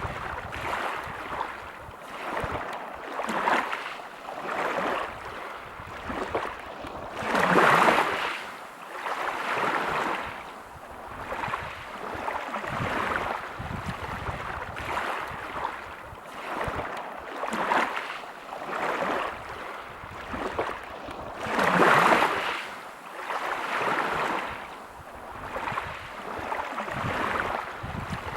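Sea waves breaking and washing over a pebble beach, with surges of surf noise every second or two. Two bigger waves stand out, about a quarter of the way in and again about three-quarters through.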